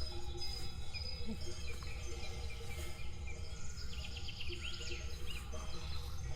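Forest birds chirping and calling, with a quick trilled call about four seconds in, over a steady low rumble.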